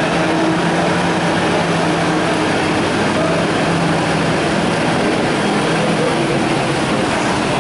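Tractor engine running steadily with a low, even drone under dense mechanical noise.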